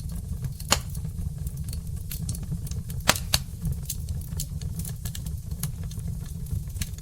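Wood logs burning in a fireplace: a steady low rumble of flame with scattered crackles and sharp pops, the loudest pop about a second in and two more close together around three seconds in.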